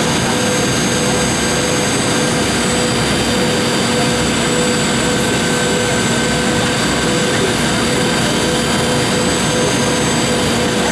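Boeing 717's rear-mounted Rolls-Royce BR715 turbofan engines running steadily, heard inside the passenger cabin as an even rush with a constant low hum and faint high whines.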